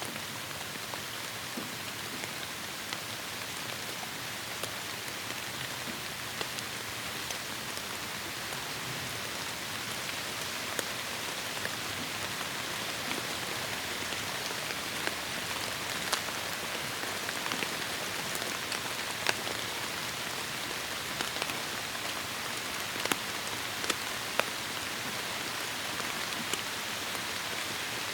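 Heavy rain falling steadily on a forest canopy: a dense, even hiss with scattered sharp drip ticks, more frequent in the second half.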